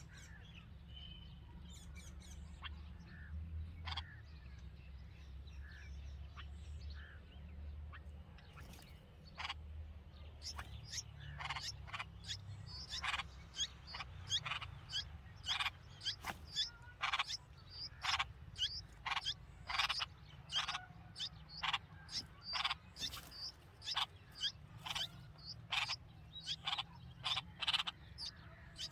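Red-vented bulbul chirping in short, sharp notes: scattered at first, then from about a third of the way in a steady series of about three chirps every two seconds.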